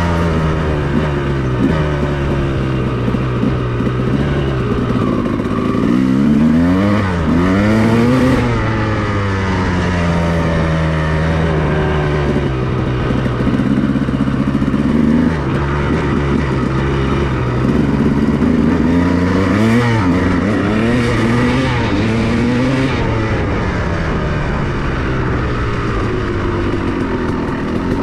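2002 Honda CR250R's two-stroke single-cylinder engine running as the dirt bike is ridden, holding steady revs between sharp rises and falls in pitch as the throttle is opened and shut, about a quarter of the way in and again past two-thirds.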